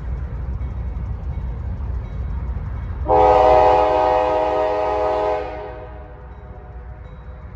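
Diesel locomotive rumbling steadily. About three seconds in, its air horn sounds one long blast, a chord of several tones that fades away after about two and a half seconds.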